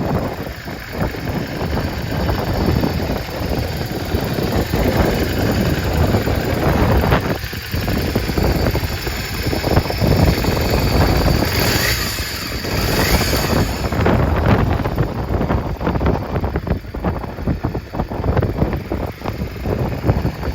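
Yamaha Drag Star 400 fuel-injected V-twin motorcycle engine idling, with wind buffeting the microphone.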